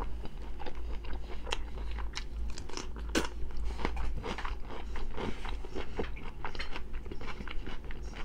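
A person chewing a mouthful of fresh cucumber and sausage, with a steady run of crisp crunches; the loudest crunch comes about three seconds in.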